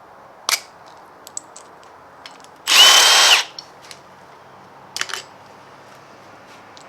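A handheld power drill spins in one short burst about three seconds in, with a steady whine, backing out a bolt during engine teardown. A few sharp metal clinks come before and after it.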